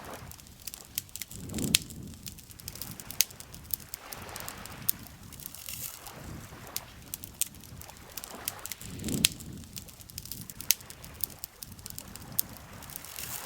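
Campfire crackling, with many sharp, irregular pops and snaps over a soft steady hiss. Twice, a low swell of lake water laps gently.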